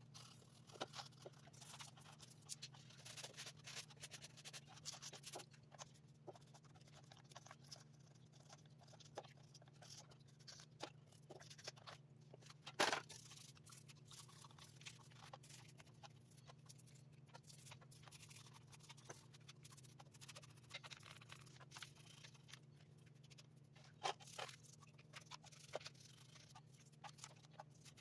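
Faint, scattered clicks and scrapes of small parts and tools being handled, over a steady low hum, with a sharper click about 13 seconds in and another near 24 seconds.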